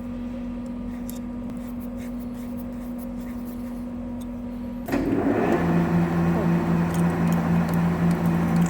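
Metal lathe running with a steady hum. About five seconds in it jumps louder, with a new, lower hum and rougher noise on top, and keeps running.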